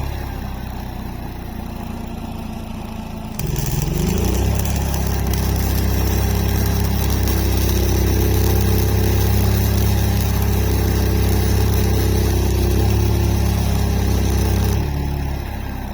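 Flux-core wire welder laying a weld: a steady electrical buzz with crackling arc hiss. It gets louder about three and a half seconds in and drops back just before the end.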